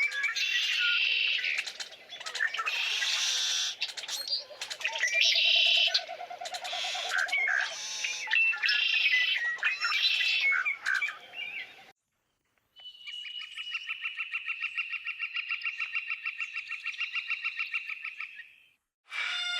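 Songbirds chirping and singing over one another in a dense chorus. After a brief silence, a single bird gives a long, fast, even-pitched trill lasting about six seconds.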